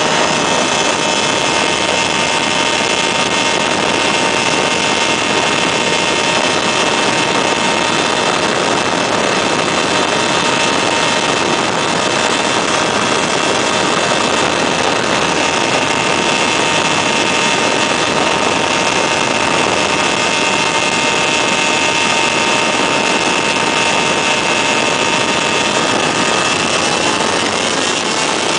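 Weedhopper ultralight's two-stroke engine and propeller running loud and steady at constant power, the pitch shifting slightly near the end.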